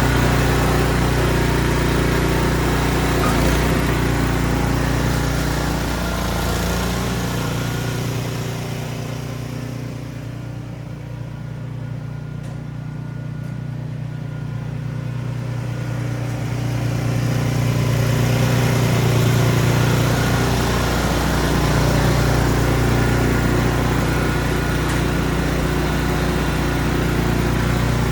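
Ariens Platinum SHO 24-inch snow blower running steadily under load, its engine hum overlaid by a hiss. The hiss fades for several seconds in the middle, then returns.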